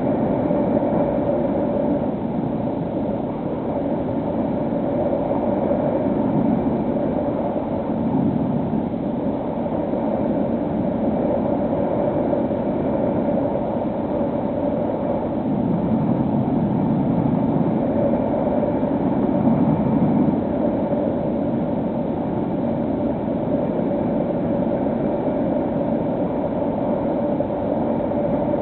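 Electric motor and pusher propeller of a HobbyKing SkyEye FPV plane in flight, a steady drone with a held whine over wind rush. The drone swells a little about halfway through and again a few seconds later.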